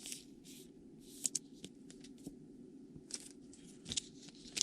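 Trading cards being slid into soft plastic penny sleeves: a handful of short, scattered plastic rustles and light scrapes over a low steady background hum.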